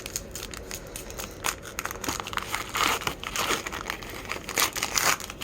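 Crinkling and tearing of a baseball card pack's wrapper as it is opened, in irregular bursts that are loudest about three seconds in and again near the end.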